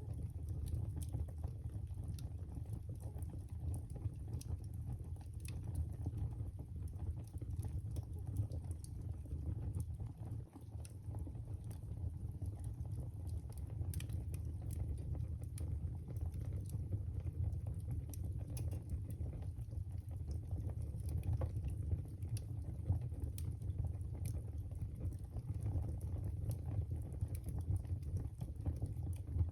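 Wood fire burning in a fireplace: a steady low rush of the flames with frequent irregular crackles and small pops.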